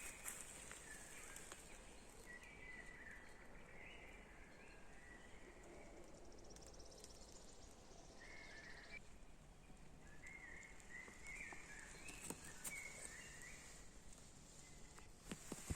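Faint songbirds singing: short warbling phrases in several runs, with a brief gap in between.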